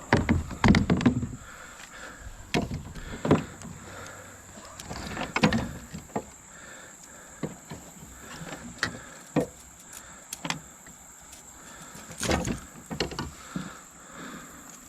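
Irregular knocks, thumps and rattles of fishing gear against a kayak while a hooked bass is fought on rod and reel. A steady high insect buzz sits underneath.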